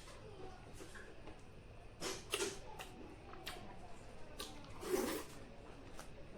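Eating sounds: quiet chewing and mouth noises with scattered small clicks, and two louder short bursts, about two seconds in and near five seconds.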